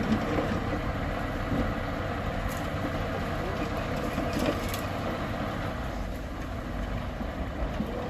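Bulldozer's diesel engine running steadily under work, with a few sharp metallic clanks about two and a half and four and a half seconds in.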